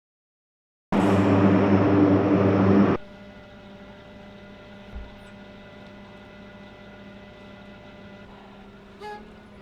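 Loud aircraft engine noise that starts suddenly about a second in and is cut off abruptly two seconds later, leaving a much quieter steady engine hum with a brief thump and a short squeak near the end.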